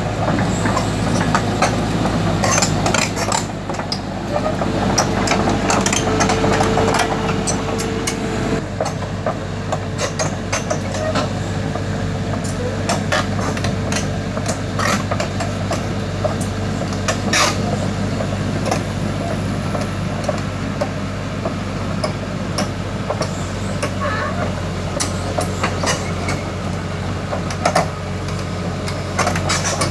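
Kobelco SK140 tracked excavator's diesel engine running steadily, with frequent clanks and knocks of steel against steel. A steady whine runs from about four to nine seconds in.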